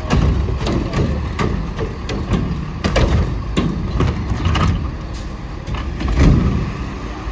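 Autocar ACX garbage truck with a Heil Curotto-Can loader, its engine rumbling steadily under a run of knocks and clanks, the loudest about six seconds in.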